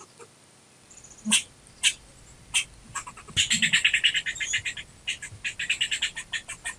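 Squirrel chattering: a few sharp single chirps, then from about three and a half seconds in a rapid run of harsh chucking calls, several a second.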